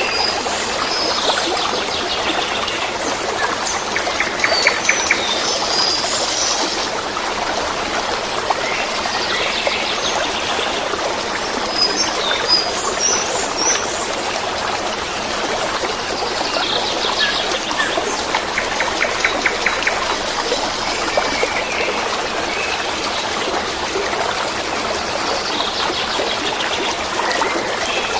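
Running water babbling steadily, with songbirds chirping over it: high chirps and short rapid trills that come and go every few seconds.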